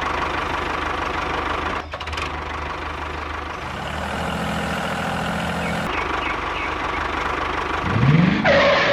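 The motor of a DIY mini model tractor running steadily with a mechanical engine-like sound. Near the end its pitch rises in a short climbing whine.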